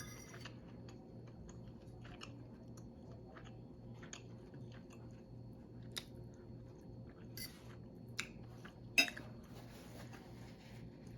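Close-miked chewing of food, with scattered small wet clicks and a few sharper taps, the loudest about nine seconds in.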